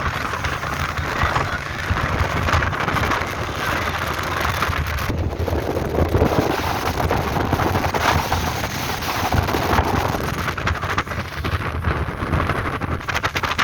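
Motorboat under way: engine running steadily with a low rumble, wind buffeting the microphone.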